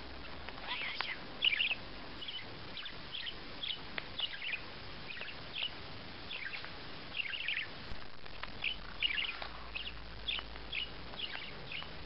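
A small bird chirping over and over: short, high chirps, two or three a second and irregularly spaced, over a steady background hiss.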